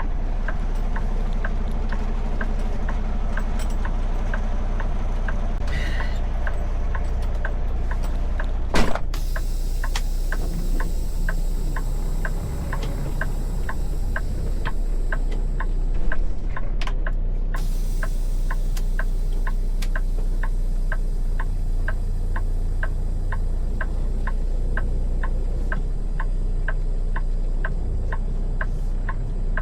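Steady low rumble, like an idling vehicle, under an even, rapid ticking of about two to three ticks a second. There is a sharp click about nine seconds in and a smaller one near sixteen seconds.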